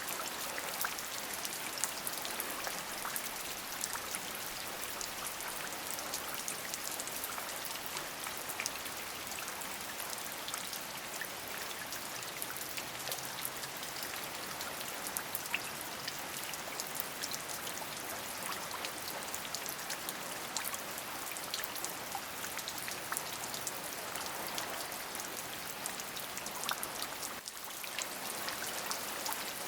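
Steady rain falling, an even hiss dotted with many distinct drop ticks, with a brief dip in level near the end.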